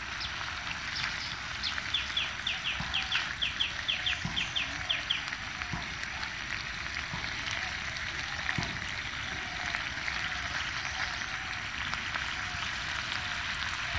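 Chopped chicken livers sizzling gently in masala in a frying pan while a silicone spatula stirs them. From about two to five seconds in, a bird calls in a rapid series of short high notes, about four a second.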